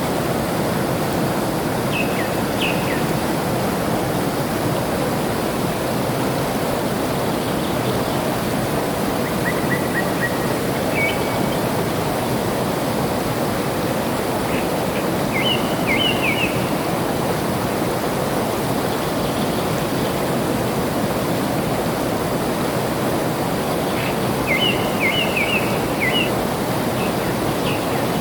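Steady rush of flowing water, with small birds chirping briefly over it four times, each a quick cluster of short high notes.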